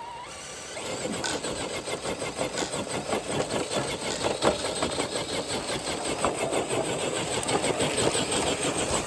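Traxxas TRX4 RC crawler truck pulling a weighted dead sled: its electric drivetrain and tyres run steadily under load, with a dense scraping rattle that steps up about a second in and is loudest near the end.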